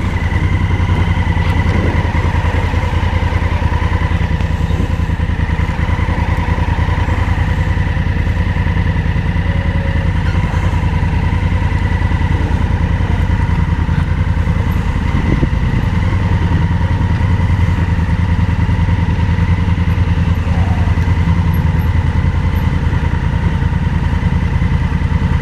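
Motorcycle engine running steadily at an even speed, with a thin, steady high whine above it.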